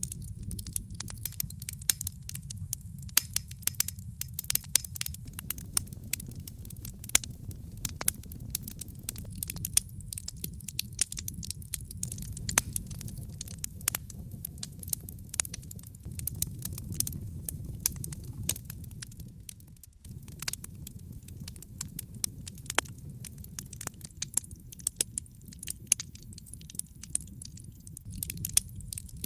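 Wood fire in a fireplace crackling: many sharp, irregular pops and snaps over a steady low rumble. The rumble drops out briefly about two-thirds of the way through.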